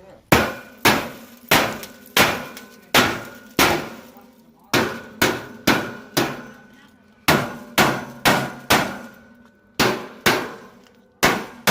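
Hammer blows on metal, about seventeen strikes at an irregular one to two a second with short pauses between groups, each leaving a brief metallic ring.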